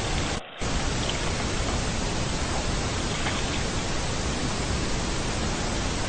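Steady, even hiss, cut off for a moment about half a second in.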